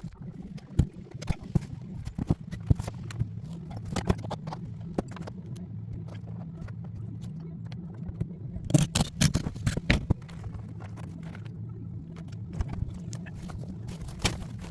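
Irregular knocks and taps from work on a metal garage roof, over a steady low hum, with a burst of louder knocks about nine seconds in.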